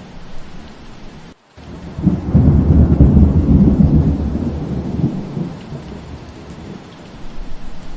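Steady rain with a roll of thunder: a low rumble builds about two seconds in, is loudest for a couple of seconds, then slowly dies away. Just before it the sound drops out for a moment.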